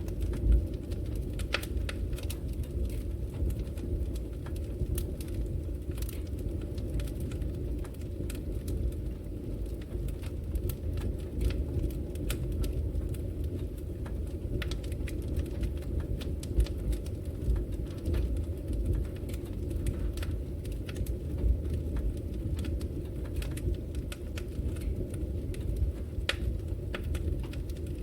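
Wood fire crackling: burning logs give irregular sharp pops and snaps over a steady low rumble of flame.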